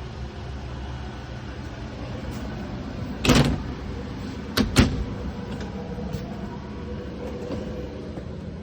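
A steady low hum with one short knock about three seconds in and a quick double knock a second later.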